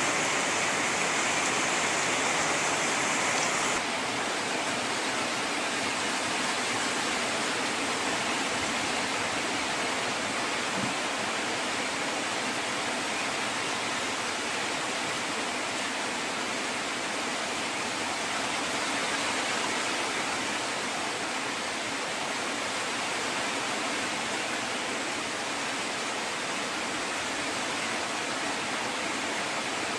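Steady heavy rain, a dense even hiss. A little under four seconds in, the hiss becomes slightly quieter and duller as its highest part drops away.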